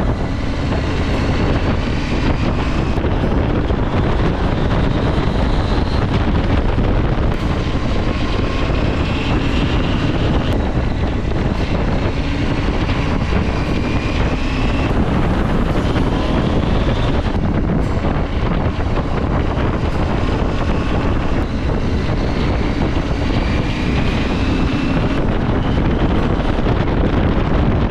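Motorcycle ridden at speed, with heavy wind rush on the microphone over the engine note. The engine's pitch climbs several times under acceleration.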